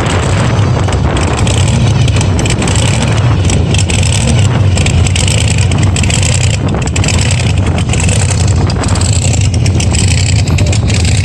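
A car engine running steadily with a low rumble, with wind noise on the microphone.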